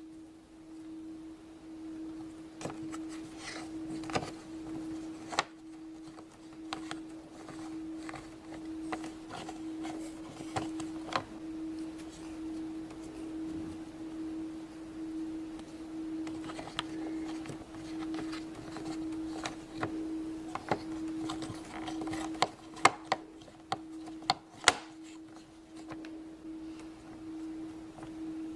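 A steady low hum throughout, with scattered light clicks and taps from plastic Play-Doh tools and molds being handled on a table, a few sharper taps near the end.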